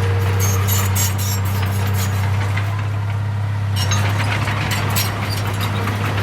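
Heavy diesel engine of earthmoving machinery running steadily, with scattered clattering and rattling over it, mostly about a second in and again around four to five seconds in.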